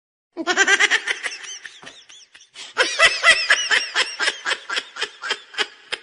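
High-pitched, rapidly pulsed laughter in two bouts, the second longer, with a short gap about two seconds in.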